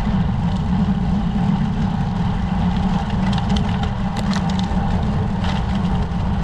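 Steady low rumble of wind and road noise on the microphone of a camera riding on a road bike, with a few faint ticks.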